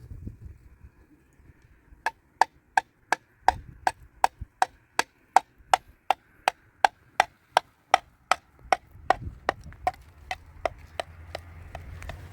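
Rapid, even hammer blows, close to three a second, each with a short ringing tone. They start about two seconds in and grow fainter toward the end.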